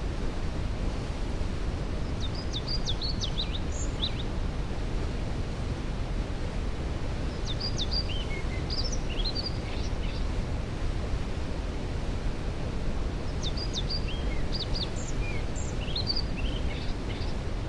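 Waterfall rushing with a steady, deep rush of water, while a songbird sings three short phrases of quick high chirps: about two seconds in, about eight seconds in, and near the end.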